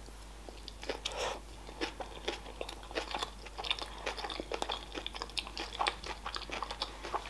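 A person chewing a mouthful of sushi roll close to the microphone: many small, irregular mouth clicks and smacks.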